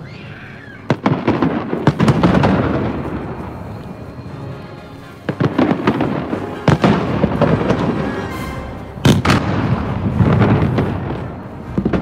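Aerial fireworks bursting overhead. Sharp bangs come in clusters about a second in, again around five to seven seconds and at nine seconds, with a rolling rumble of echoes between them.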